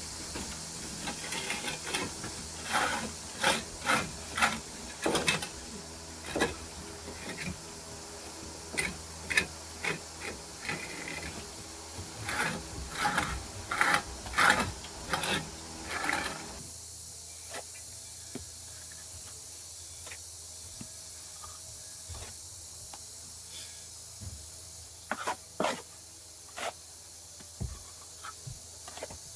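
A quick run of short, rough scraping strokes that stops about two-thirds of the way through, leaving only scattered light ticks over a steady high hiss.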